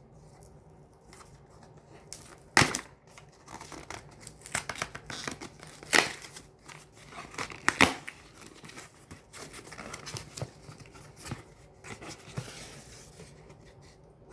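Tough packing tape being cut and ripped off a cardboard shipping box, with three loud sharp rips among steady rustling and crinkling of cardboard and paper.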